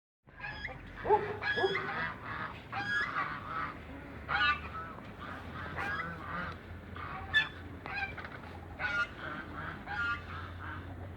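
Domestic geese, African and Toulouse, honking repeatedly in many short calls, one after another and sometimes overlapping, the loudest about a second in.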